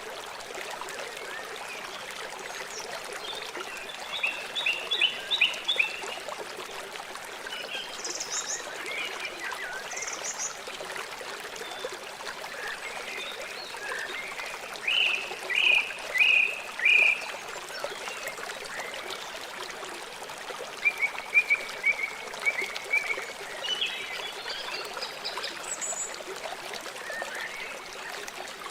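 River water flowing steadily. Over it come short series of repeated chirping calls: one run a few seconds in, a louder run of four calls about halfway through, and another run near the end.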